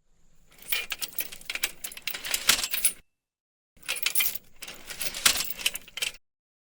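Rapid clicking and clinking of small hard objects, in two stretches of about two and a half seconds each, with a cut to silence between them.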